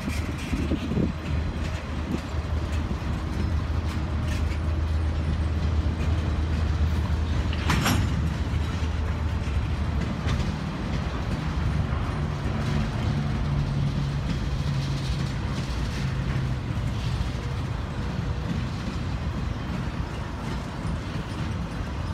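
Welded-rail train flatcars with steel rail racks rolling slowly past, wheels running on the track in a steady rumble. A low hum sits under it for the first nine seconds or so, and there is one sharp metallic clank about eight seconds in.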